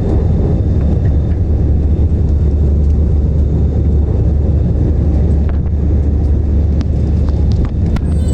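Airplane running with a steady, loud low rumble and no change in pitch, with a few faint ticks in the second half.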